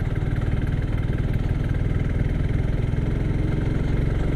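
Suzuki Gixxer SF's single-cylinder engine running steadily at low revs, its exhaust pulsing evenly. The bike is labouring up a very steep climb in a low gear and struggling to pull in second.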